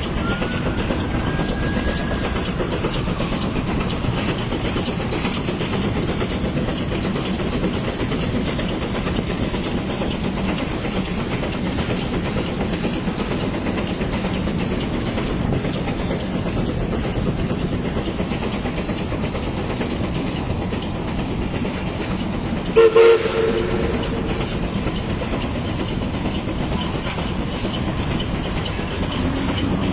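1947 Baldwin Mikado 3 ft gauge steam locomotive running on its test trip, with a steady rhythmic clatter of the train on the rails. About 23 seconds in there is one short, loud toot.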